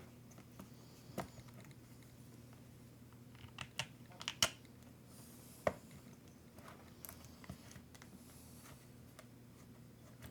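Scattered clicks and taps of small hard parts and hand tools being handled during an RC truck repair. The clicks come singly, with a quick cluster about four seconds in and another sharp one just before six seconds. A steady low hum runs underneath.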